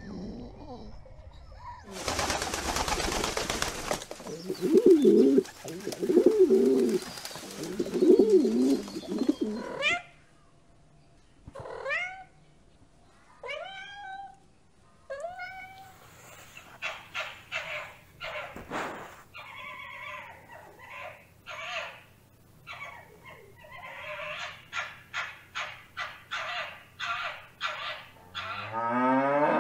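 A sequence of animal calls. First come deep, noisy grunts. Then a cat meows about four times, each meow rising and then falling. After that comes a long run of short, quick yelps, about two a second, from an arctic fox, and a cow starts to moo at the very end.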